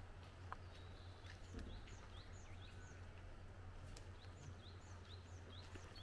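Faint birdsong: a small bird gives a rapid run of short, high chirps, a few each second, over a low, steady rumble.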